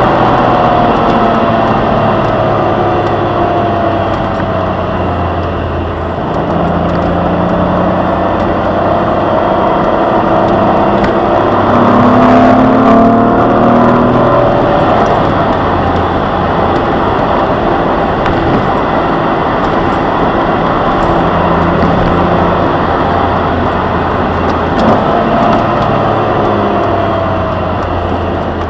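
2003 Jaguar X-Type's 2.5-litre V6 heard from inside the cabin while driving, over steady tyre and road noise. The engine note drops over the first few seconds, then holds with gentle rises and falls.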